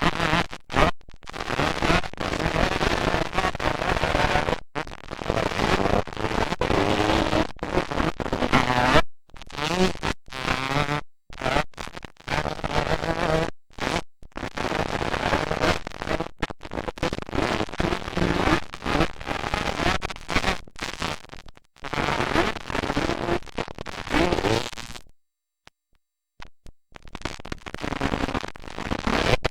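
Motocross dirt bike engines racing and revving, loud and harsh, cutting out abruptly several times with a longer break near the end.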